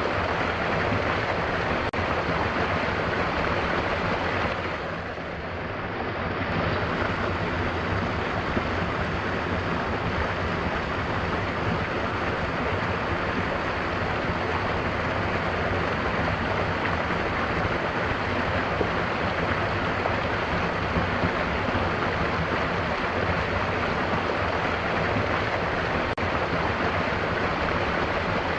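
Mountain waterfall, water rushing and splashing in a steady, dense roar, briefly easing off about five seconds in before returning to full strength.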